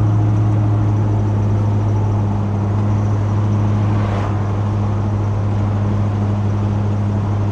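1983 Chevy C10 pickup's engine and exhaust droning steadily at a constant speed, holding one even low pitch.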